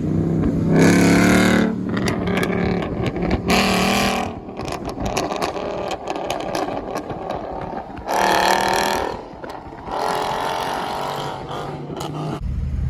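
Car engine revved in several loud swells, the exhaust popping and crackling with many sharp pops between the revs.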